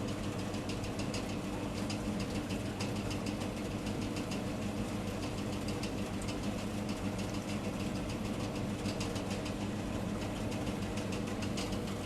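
Rain falling, heard as quick scattered ticks of drops, over a steady low mechanical hum like an idling engine.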